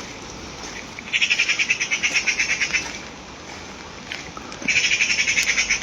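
A songbird singing two runs of rapid, even trilling, one about a second in lasting nearly two seconds and another starting near the end, over a faint steady hiss of rain.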